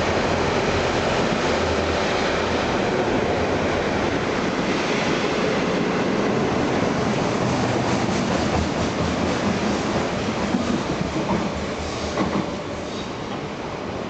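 Diesel-hauled freight train rolling through a station: a steady rumble and wheel-on-rail noise, with a run of sharp clacks about ten to twelve seconds in, then growing quieter near the end as it passes.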